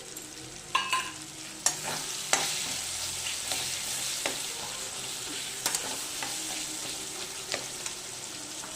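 Onion and tomato masala sizzling in oil and ghee in a kadai, with a spatula stirring and knocking against the pan in scattered sharp clicks, one near the start ringing briefly like metal.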